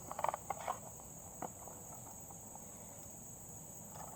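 Crickets making a steady high-pitched drone, with a few light clicks and taps in the first second and-a-half.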